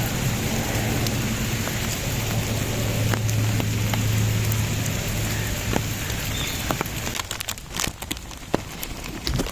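Steady rain falling, a dense hiss scattered with the ticks of single drops. A low steady hum runs under it and fades out about six seconds in. Near the end the rain thins and separate drips and taps stand out.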